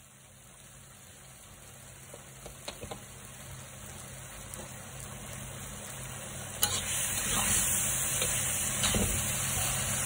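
Sauce sizzling in a wok while a metal spatula stirs and scrapes through it, with short clinks against the pan. About two-thirds of the way in, penne goes into the sauce with a sharp clack, and the sizzling then becomes louder and hissier as the pasta is tossed. A low, steady hum runs underneath throughout.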